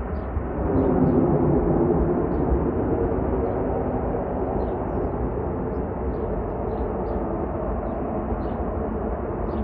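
Jet airliner's engines at takeoff power: a steady rumble with a droning hum that grows louder about a second in, then eases slightly.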